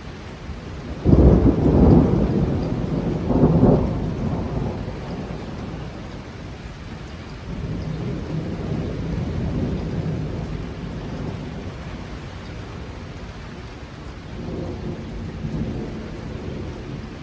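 Thunderstorm: a loud thunderclap breaks about a second in and rolls on for a few seconds, with more distant rumbles later, over steady heavy rain.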